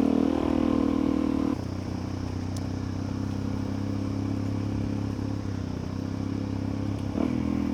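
Suzuki DR-Z400E's single-cylinder four-stroke engine running while riding, with a steady engine note that drops lower and quieter about a second and a half in and picks up again near the end.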